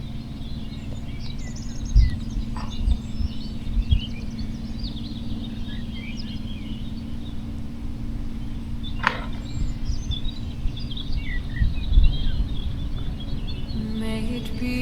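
Small birds chirping and singing over a steady low hum, with irregular low rumbles.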